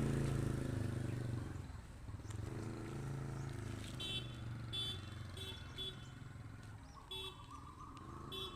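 A low engine hum that slowly fades, joined about halfway through by a string of short, high chirps.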